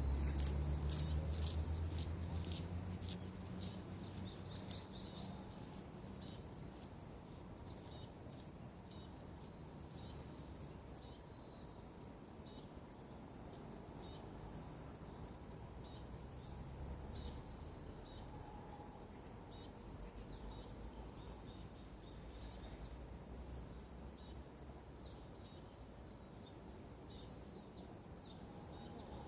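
Wild birds chirping in scattered short calls, with a quick run of sharp high ticking notes in the first few seconds. A low rumble fades out over the first few seconds.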